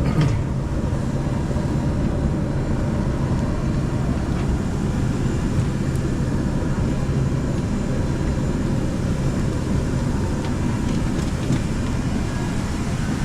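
Airliner cabin noise after landing: the engines run with a steady low hum and rushing noise as the plane taxis.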